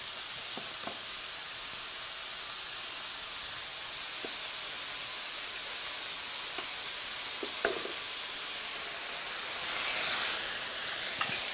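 Salmon fillets frying in oil in a skillet, with mushrooms sautéing in a second pan, make a steady sizzle. The sizzle swells louder for a moment near the end, and a few faint light knocks sound along the way.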